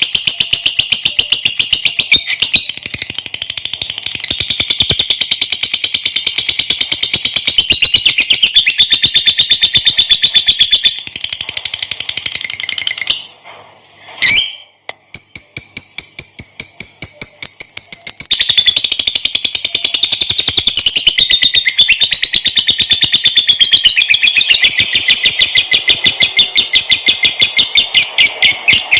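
Lovebird singing its long, rapid chattering trill (ngekek), high-pitched and unbroken apart from a pause of about two seconds near the middle, after which it starts again.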